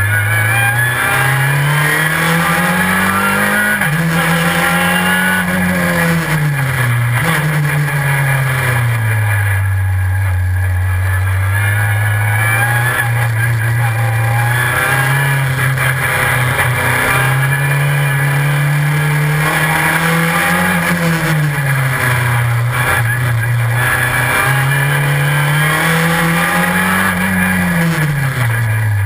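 Super FJ formula car's engine at racing revs, its pitch climbing and falling repeatedly as it accelerates and slows around the track, with sudden pitch steps at gear changes through the dog-ring gearbox.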